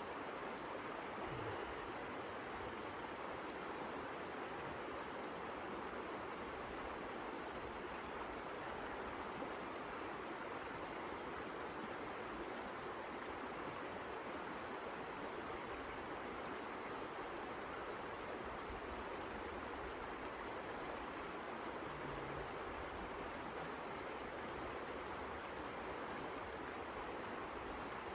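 Blizzard wind blowing steadily, an even rushing hiss with no gusts or breaks.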